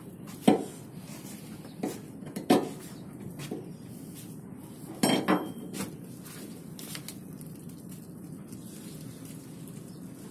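Several sharp metallic clanks and knocks, with a cluster in the middle, over a steady low background hum.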